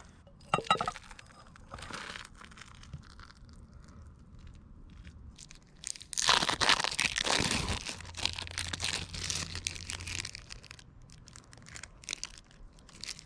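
Crackling, crinkling sounds of food being cooked and handled, with a short clatter about half a second in and a loud crackling burst about six seconds in that dies away over a couple of seconds.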